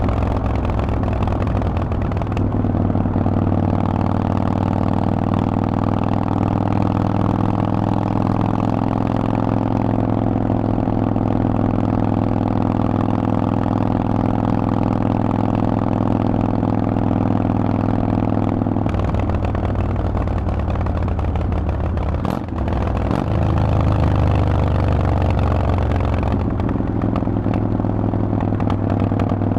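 Harley-Davidson Forty-Eight's air-cooled V-twin running through a Vance & Hines exhaust while riding, a steady engine note. About two-thirds of the way through the note changes, with a brief dip in loudness, and then it picks up louder again.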